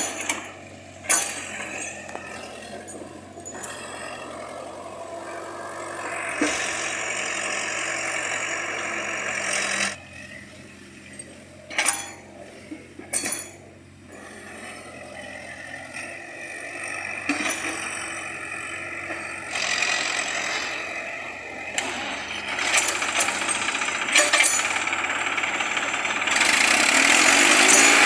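Heavy machinery engines running at work, with several sharp metallic clanks.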